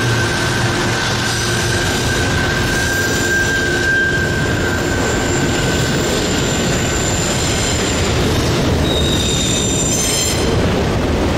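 Autorack freight cars rolling past: a steady rumble of steel wheels on the rails, with a high-pitched wheel squeal that holds through the first part and higher, sharper squeals near the end.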